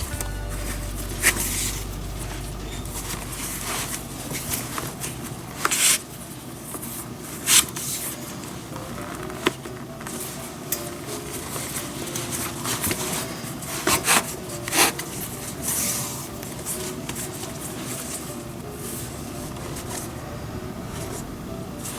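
Leather baseball glove being relaced by hand: lace and leather rubbing and scraping, with scattered sharp clicks and taps of handling and tools.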